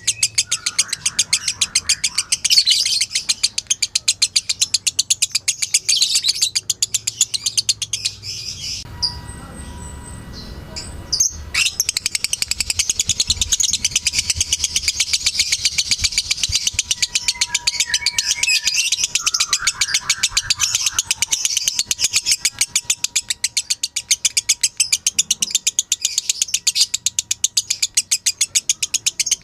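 Lovebird chattering in a long, rapid 'ngekek' trill: a fast, even run of high chirps. It breaks off about nine seconds in and starts again a couple of seconds later.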